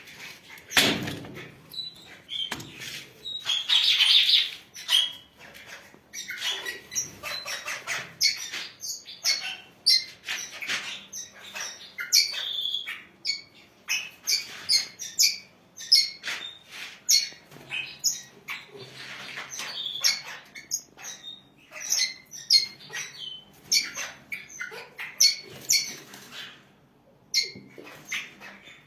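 A flock of parrots in an aviary, mostly cockatiels, chirping and squawking in a constant overlapping stream of short, sharp calls.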